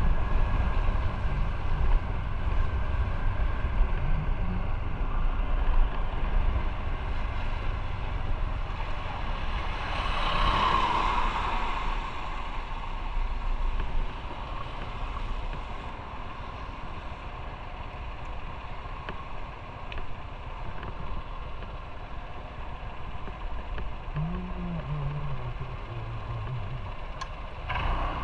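Motorcycle engine running and wind rushing past while riding. The noise swells briefly about ten seconds in, then settles lower for the rest.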